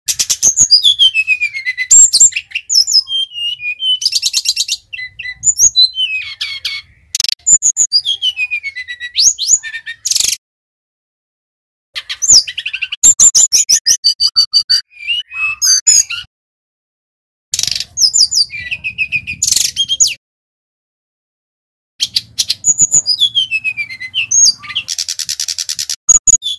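Sikatan rimba dada coklat (a jungle flycatcher) singing loud, varied phrases of high whistles, downward-sweeping notes and rapid trills. The song comes in bursts of a few seconds, with brief silent pauses between them.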